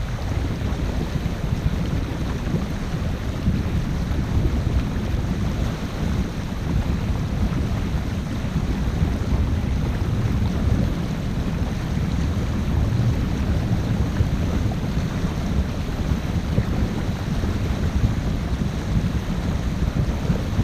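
Wind buffeting a GoPro's microphone aboard a moving motor boat: a steady low rumble that flutters rapidly, with no distinct engine note.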